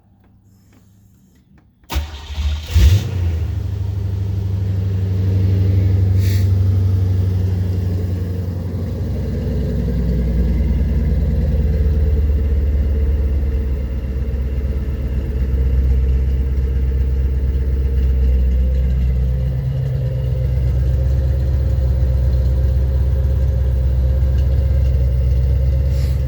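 1985 Corvette's 5.7-litre V8 cranking and catching about two seconds in, then idling steadily. It breathes through a homemade 2.5-inch exhaust with an X-pipe in place of the catalytic converter and Flowmaster Super 10 mufflers.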